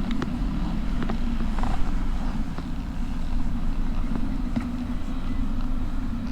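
Motorcycle engine running steadily, a constant low hum with a few faint ticks.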